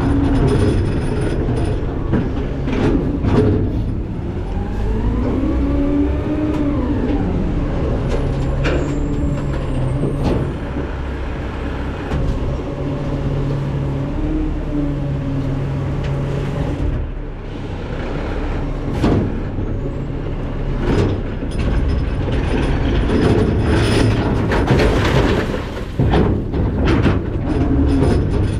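McNeilus ZR rear-loader garbage truck working its hopper: the diesel engine and hydraulic packer run with a steady hum, the engine pitch rises and falls once early on, and scattered knocks and clanks of trash being packed come through, most often in the last third.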